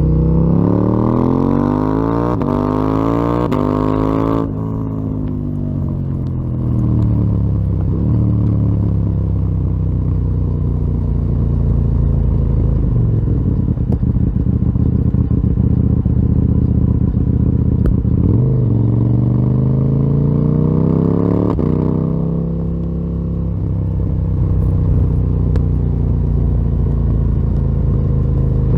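KTM 890 Duke R's parallel-twin engine through a full Akrapovic exhaust system, pulling hard with rising revs, then the throttle snapping shut about four seconds in and the revs falling away over several seconds. It pulls up again later, shuts off sharply once more, then runs steadily at part throttle.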